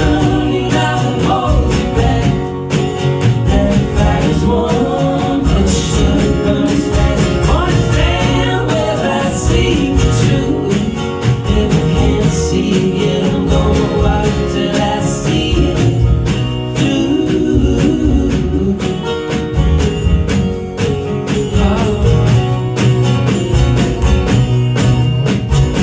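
Live indie-folk band playing a song: strummed acoustic guitar, percussion and other instruments, with singing or vocal harmonies over it.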